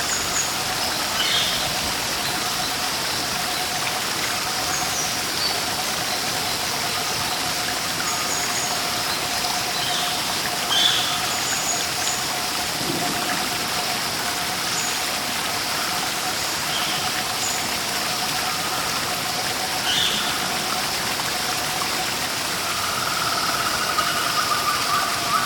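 Steady rush of a waterfall or stream, with short bird chirps scattered through it. A buzzy trill starts a couple of seconds before the end.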